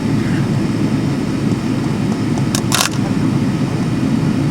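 Steady low rumble of an airliner cabin on the ground, with engines and cabin air running, and two brief sharp noises about two and a half seconds in.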